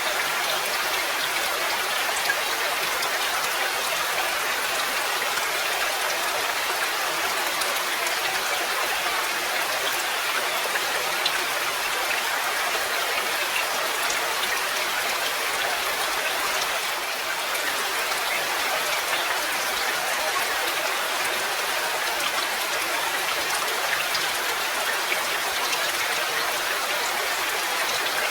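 Steady rain falling: an even hiss of rain with scattered drop ticks and a few slightly louder drips.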